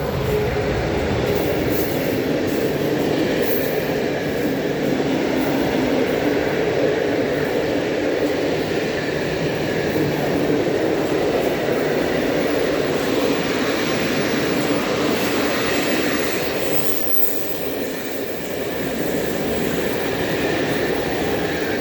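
Train passing close by on the line, with a steady, loud rumble of wheels on rail that dips briefly late on.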